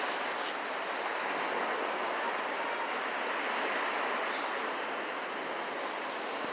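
Ocean surf: a steady rush of waves washing in.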